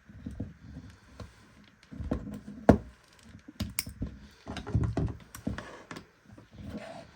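Handling noises: irregular taps, knocks and clicks, with one sharp click about two and a half seconds in.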